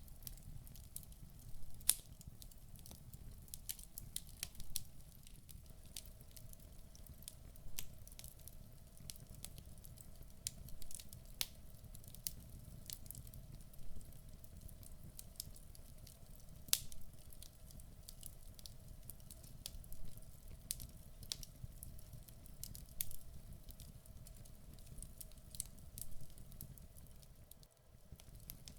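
Wood fire burning in a fireplace, logs crackling and popping at irregular intervals over a low steady rumble.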